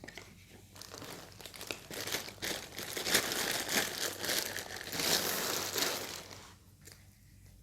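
Packaging crinkling and rustling in dense bursts with small clicks as a product is unwrapped from its box, dying away about a second before the end.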